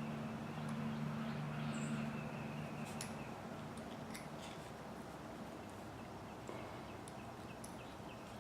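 Faint scattered clicks of a hand driver tightening small screws on an RC truck's spur gear hub, over a low steady hum that fades out after about three seconds.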